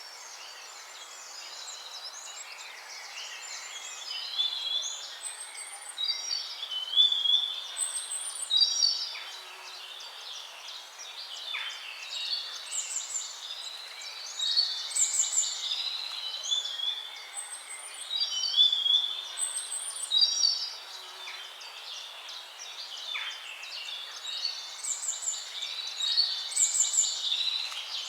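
Songbirds singing: a run of short chirps, trills and whistled phrases overlapping one another, over a steady background hiss.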